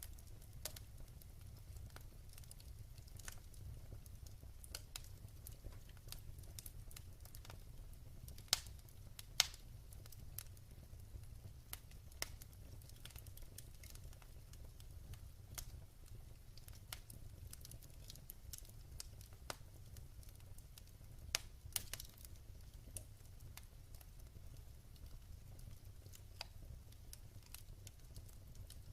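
Wood fire burning in a fireplace: irregular sharp crackles and pops over a low steady rumble of the flames, with a few louder pops about a third of the way in and again past the middle.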